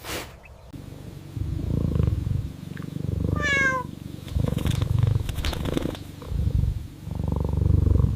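Low, rumbling animal sound coming in three long breaths, with a short, high, falling call about three and a half seconds in.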